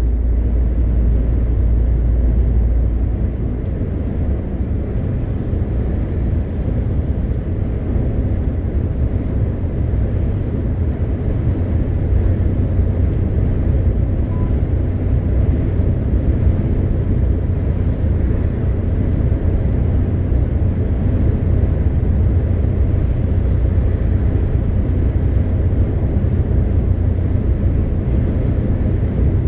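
MAN TGX 520 truck's 12.4-litre inline-six diesel running under way, a steady low drone with road noise. About three seconds in, the deepest note steps up in pitch and then holds.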